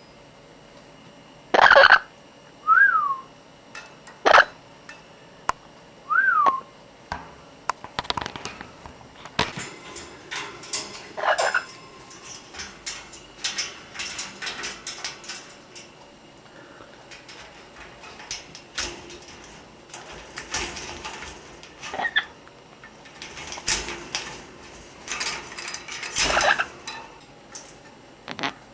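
Orange-winged amazon parrot calling: two short whistles that rise and then fall a few seconds in, and several loud short calls spread through. Scattered clicks and scratchy rustling run through the second half.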